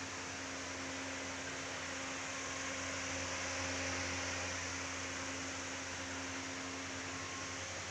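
A steady hiss with a low hum underneath, swelling slightly around the middle.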